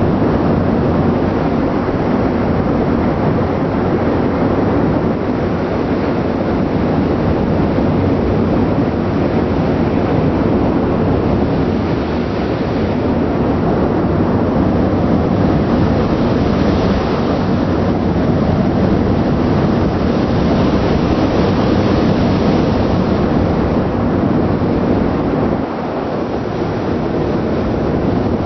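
Steady, loud rushing noise of a ship under way: engine and exhaust noise mixed with wind on the microphone and the wash of the sea, dipping briefly near the end.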